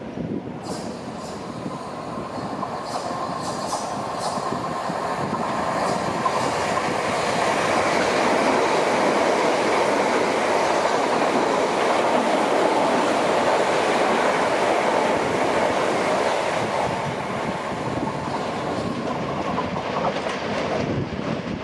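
Electrostar electric multiple-unit train running along the tracks, growing louder as it approaches over the first eight seconds or so, then staying loud and easing a little near the end, with sharp wheel clicks over the rail joints in the first few seconds.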